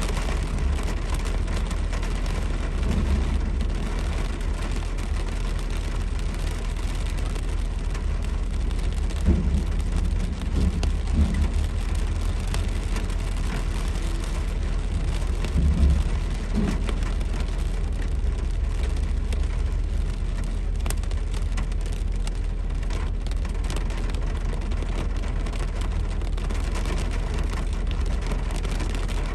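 Heavy rain falling, over the steady low rumble of a car on the road. A few louder low thumps come in the first half.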